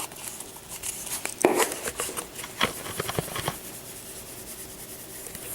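Onion powder being shaken out of a spice shaker: a handful of light clicks and scratchy taps over a couple of seconds, then quieter.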